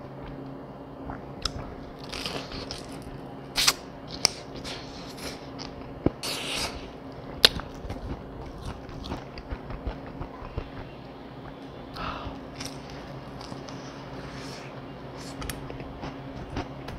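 Close-up chewing and crunching of squid-ink black fried chicken: irregular crisp bites and mouth clicks, the sharpest crunches about three and a half and seven and a half seconds in.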